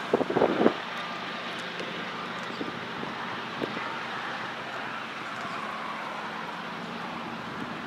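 Wind buffeting the microphone, with several loud gusts in the first second, over a steady rushing noise.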